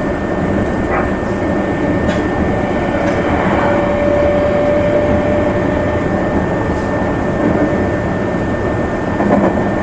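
Meitetsu Nagoya Main Line limited express train running at speed, a steady rumble of wheels on rail. A thin steady tone sounds over it for about two seconds in the middle, with a few faint clicks.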